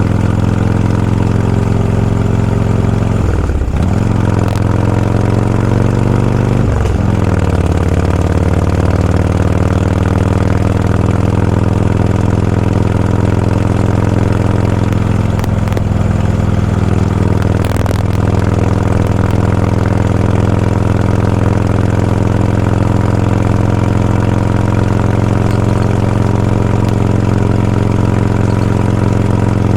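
Motorcycle engine running at low road speed, steady and loud, with two brief drops and rises in pitch a few seconds in as the revs change between gears.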